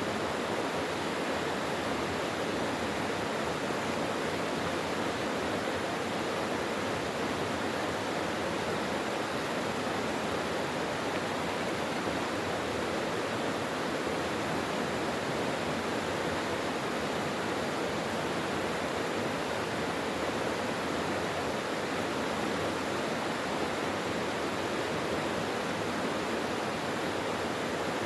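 Mountain valley stream running steadily: an even rush of water with no separate splashes or changes.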